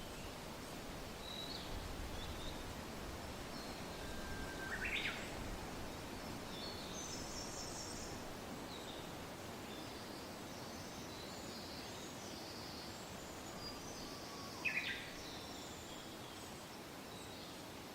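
Soft steady wind with birds singing: scattered faint high chirps throughout, and two louder short calls that sweep upward, about five seconds in and near the end.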